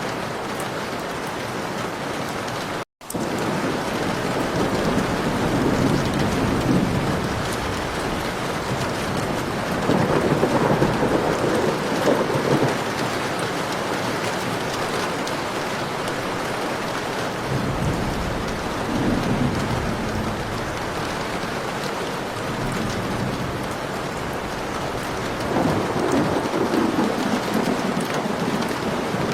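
Heavy rain falling steadily, with thunder rolling in low rumbles that swell and fade about four times. The sound cuts out for a split second about three seconds in.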